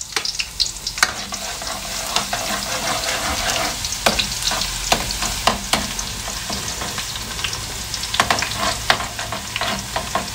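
Chopped food sizzling in hot cooking oil in a steel wok; the hiss swells about a second in, as the food goes into the oil. A metal spatula stirs it and scrapes and clacks against the wok again and again.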